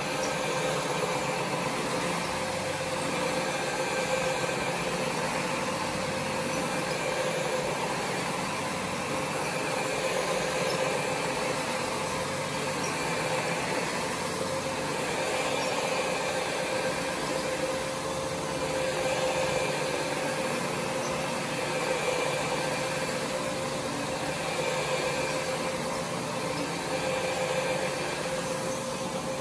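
Counter-rotating brush (CRB) carpet scrubbing machine running steadily as it scrubs a rug, a constant motor hum with a steady tone, swelling slightly now and then.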